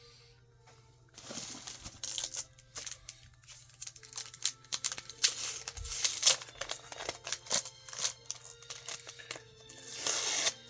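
Plastic packaging and comic bags crinkling and tearing as a stack of comics is unwrapped and handled, with irregular rustles and small clicks and a burst of crinkling near the end, over a faint steady hum.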